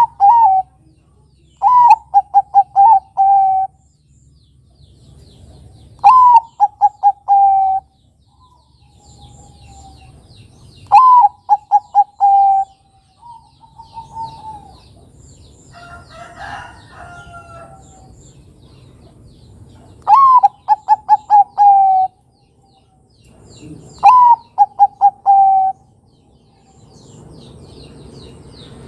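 Zebra dove (perkutut) of the Bangkok type cooing: about five phrases spaced several seconds apart, each a high opening note followed by a quick run of short coos ending on a longer, falling note. Faint chirping from small birds runs underneath, and a brief rougher call comes about halfway.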